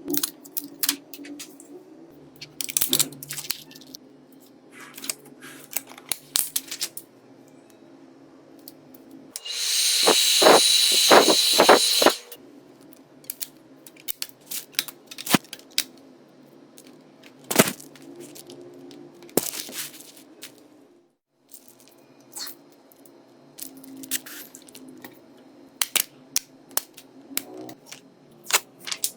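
Small tools and phone parts clicking and tapping during a phone repair. About ten seconds in, a small power tool runs loudly for about two and a half seconds with a high whine, then cuts off.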